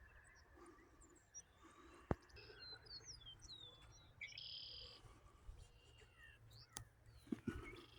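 Faint dawn chorus of songbirds: short chirps and twittering notes, busiest in the middle. Two sharp clicks stand out, one about two seconds in and one near the end.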